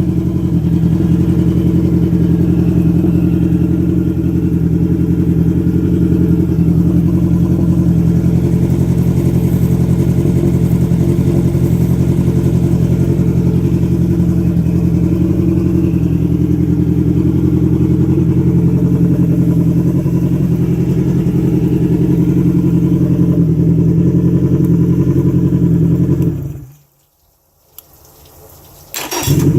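Yamaha 80 HP four-stroke outboard's inline four-cylinder engine running steadily at an even speed. The sound cuts out for about three seconds near the end, then comes back suddenly.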